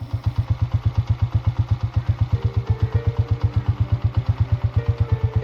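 Motorcycle engine idling with a steady, even beat of about eleven pulses a second.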